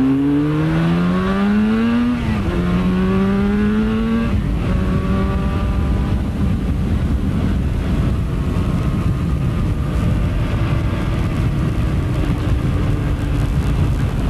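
Motorcycle engine accelerating away through the gears: the pitch rises, drops at a shift about two seconds in, rises again and drops at a second shift about four seconds in, then settles to a steady cruise.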